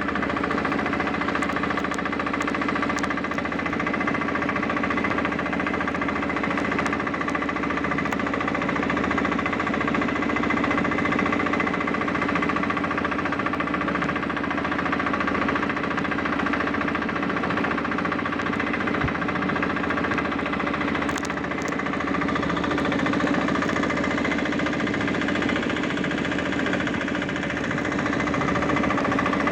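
Fishing boat's engine running steadily with an even mechanical drone.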